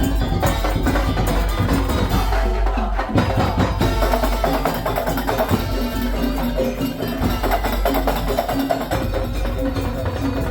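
Madurese tong-tong ensemble playing: wooden kentongan slit drums knocking in a dense, fast rhythm over drums and steady low pitched tones.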